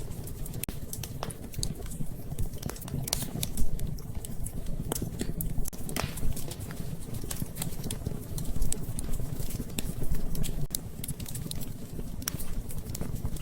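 Wood fire in a fireplace crackling, with irregular sharp pops and snaps, a few of them louder, over a steady low rumble of the flames.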